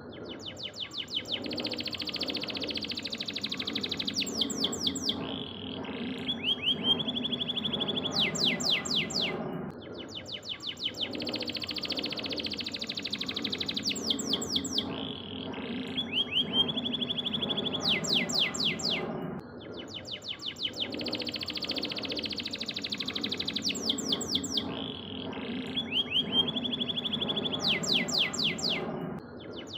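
Domestic canary singing rapid trills and fast series of sweeping notes. The same phrase, about ten seconds long, repeats three times, as in a looped tutor (masteran) recording for teaching other songbirds. A steady low hum runs underneath.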